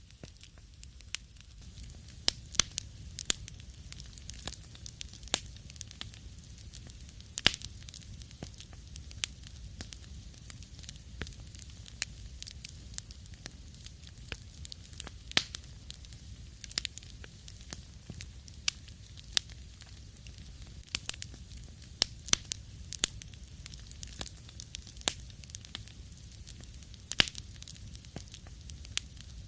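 Wood fire crackling in a fireplace: irregular sharp pops and snaps over a soft low rumble and hiss of burning logs.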